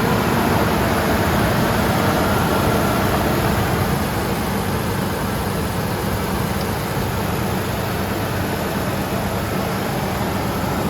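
Pickup truck engine idling steadily just after starting on a new battery, left running to get oil round after sitting a long time. It settles a little quieter about four seconds in.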